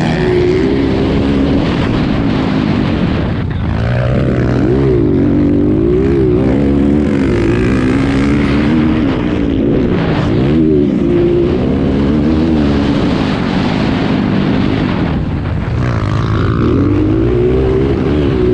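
Motocross dirt bike engines revving hard, their pitch rising and falling over and over as the bikes work through the gears. Several engines overlap at times.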